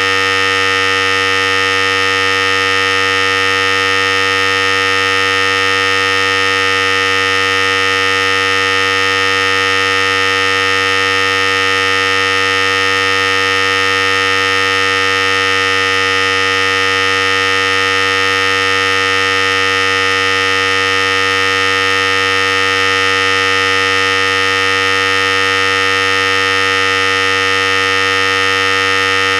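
Philips Series 5000 hair clipper running steadily: an even, unchanging buzz.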